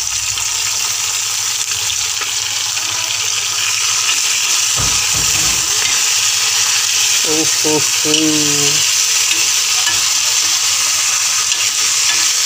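Chunks of pork frying in hot oil in a wok, a steady loud sizzle, as the pieces are stirred around the pan.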